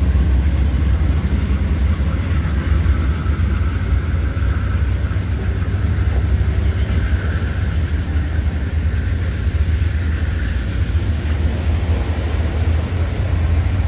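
Train running by at close range: a loud, steady low rumble with no breaks.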